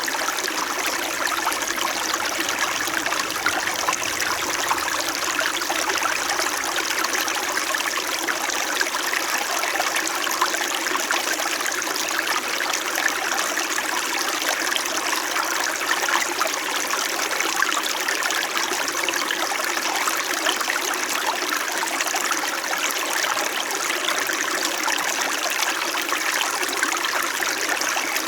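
Small mountain stream in winter flowing over rocks, a steady babble and trickle of water with no break.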